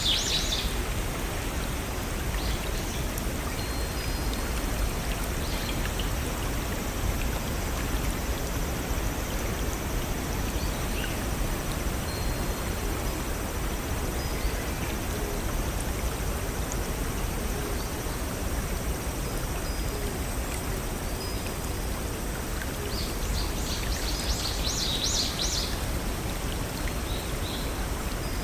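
Steady rush of a small forest stream over little waterfalls. A songbird gives a quick burst of rapid high notes right at the start and again near the end, with a few faint short chirps in between.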